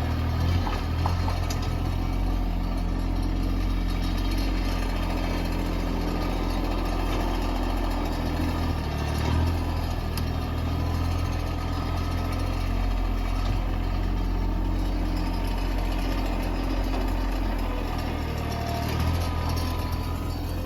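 Tractor engine running steadily, its note shifting briefly a couple of times as it works.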